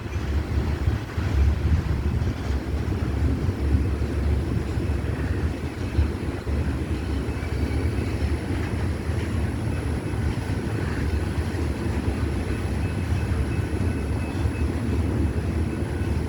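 Freight train's hopper cars rolling past: a steady low rumble of wheels on the rails, with faint thin high-pitched tones above it.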